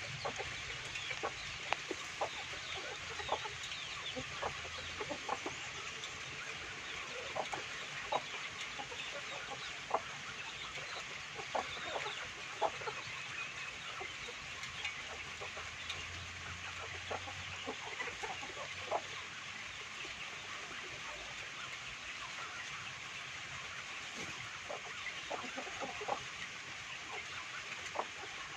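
A flock of free-range chickens clucking, with short calls scattered throughout over a steady high-pitched background din.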